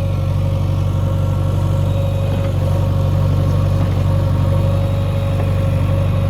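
Diesel engine of heavy machinery running steadily at idle, with an even low drone and no change in speed.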